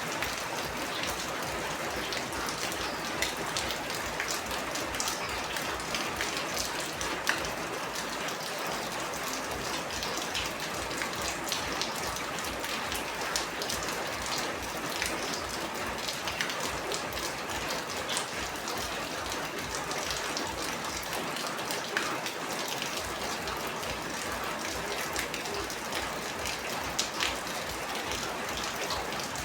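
Steady heavy rain: a dense hiss of falling rain with many small sharp drop impacts on a surface.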